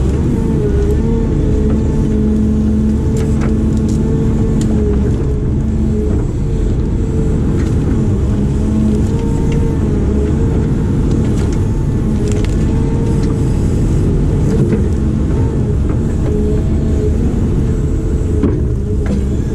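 Diesel engine of a heavy earthmoving machine running steadily under working load, its pitch wavering a little, with scattered faint clicks and knocks.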